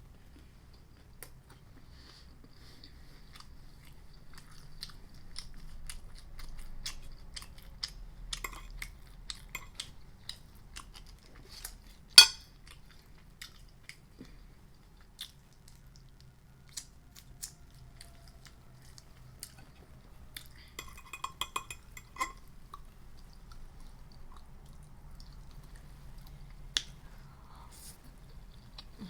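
Close-miked chewing and biting of food, with many small wet clicks and crunches. One sharp, much louder clack comes about twelve seconds in, and a quick cluster of clicks comes a little past twenty seconds.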